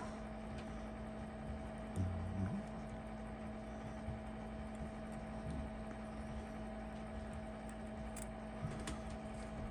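Quiet work at a watchmaker's bench: a steady low electrical hum and hiss, with a few faint light clicks and taps of small tools on watch parts and one soft thump about two seconds in.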